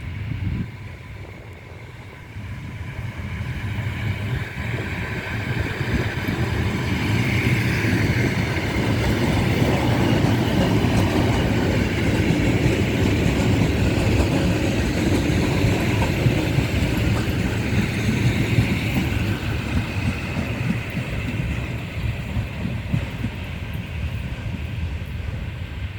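ЭП2Д electric multiple unit running past on the line. The sound builds over several seconds, stays loudest through the middle, then eases off slightly.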